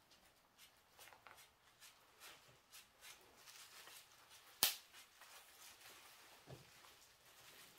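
Quiet room with faint scattered taps and rustles. One sharp click comes a little past halfway, and a soft knock follows about two seconds later.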